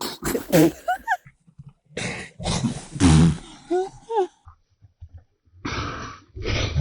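A woman's short squeals and laughs, with loud rushing bursts of noise as an alpaca feeding from her hand spits at her.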